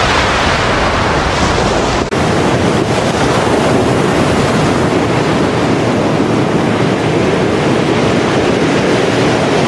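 Strong storm wind buffeting the microphone over heavy surf and crashing waves, a loud steady rush of noise, with a brief break about two seconds in.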